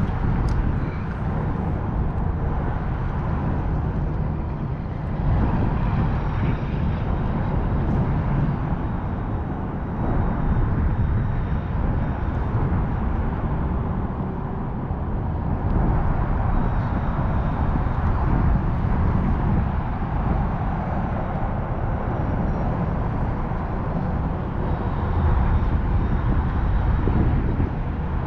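Wind buffeting the microphone: a loud, rumbling roar that swells in gusts and eases again, with no pitched engine tone.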